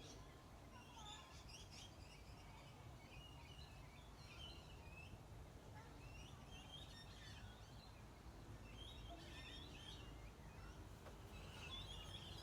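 Small birds chirping and twittering in repeated short bursts, over a faint steady low background rumble.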